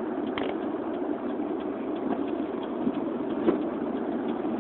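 Steady road and engine noise inside a moving vehicle's cabin, with a few faint ticks.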